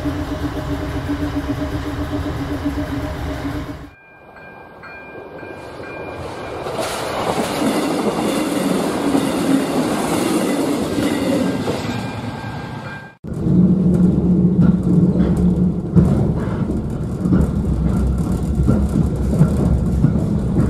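Three short train recordings cut together. First a steady on-board train hum. From about four seconds in, a level crossing's steady warning tone sounds while a passing train's noise swells. About thirteen seconds in, it cuts to the hum and rattle inside a moving train.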